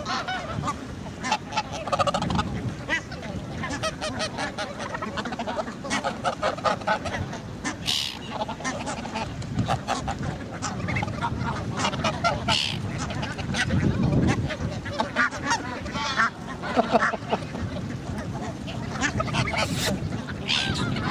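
A flock of geese honking, many overlapping calls one after another, with short sharp noises among them.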